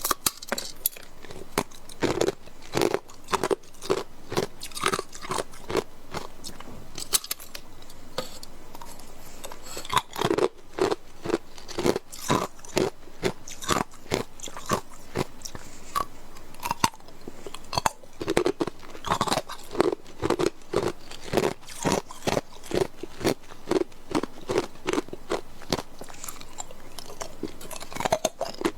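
Ice cubes being bitten and chewed close to the microphone: sharp, hard crunches several times a second in runs, with short pauses between bites.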